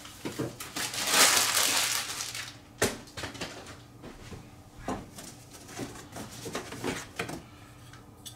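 Unboxing handling noise: packaging rustles loudly for about a second and a half starting about a second in, followed by several scattered knocks and taps as parts are moved about.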